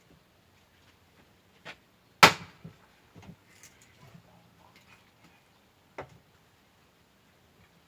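An axe splitting firewood: one loud chop a little over two seconds in, with a few fainter knocks of wood before and after.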